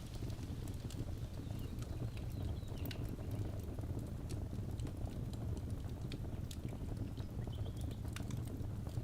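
Wood fire burning in a fireplace: a steady low rumble of the flames with scattered sharp crackles and pops, and now and then a brief faint hiss.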